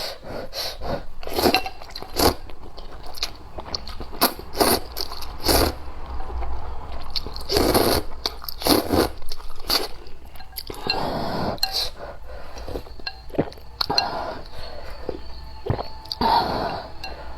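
A person eating rice noodles in spicy soup close to the microphone: chewing, with many irregular wet mouth clicks and smacks.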